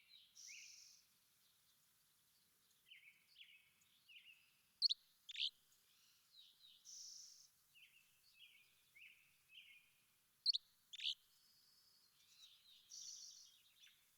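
Small songbirds chirping and calling, with short chirps, a few hazy higher notes, and two pairs of loud, sharp, falling notes: one pair near the middle and one a few seconds later.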